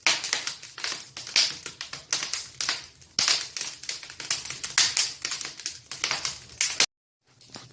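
Wood fire crackling and popping in an open fireplace, a rapid irregular stream of sharp cracks from a fire that has caught well. The sound cuts off abruptly about seven seconds in, and only a faint low background follows.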